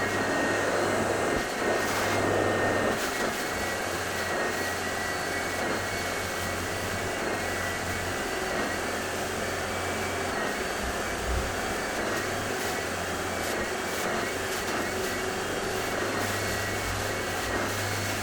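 Carpet-washing vacuum machine running steadily: an even rushing drone with a thin steady whine over it, and a low hum that cuts in and out several times.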